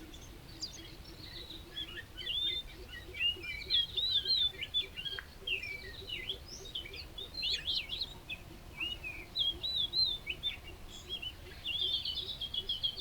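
Small songbirds chirping and twittering: a dense run of quick, short high chirps that overlap and go on throughout.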